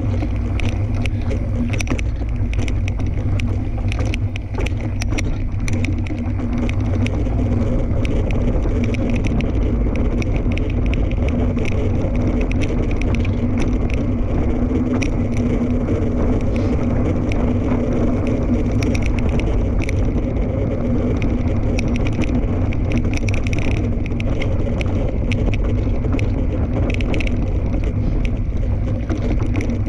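Fat-tire tandem mountain bike rolling along a dirt trail: a steady low rumble of wind on the microphone, with many small clicks and rattles from the tyres and bike.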